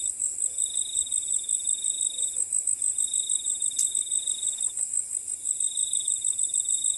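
Night chorus of crickets and frogs: a continuous high, fast-pulsing chirring, with a lower trill that starts and stops in spells of about a second and a half.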